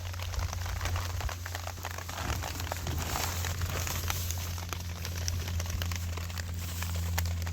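Irregular crackling and crinkling over a steady low hum.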